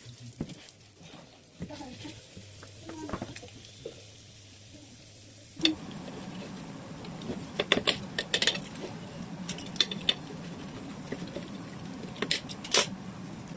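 Kitchen utensils clinking and knocking against pans and dishes: scattered light taps at first, then a sharp knock about a third of the way in, after which a steady hum runs under repeated sharp clinks.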